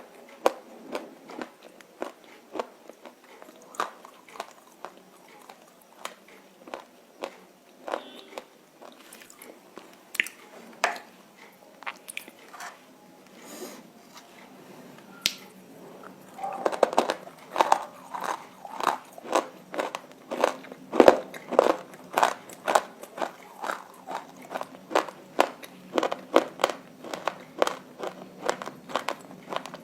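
Close-up crunching and chewing of roasted nakumatt: a run of crisp, sharp bites and crunches that grow louder and come about twice a second from about halfway on.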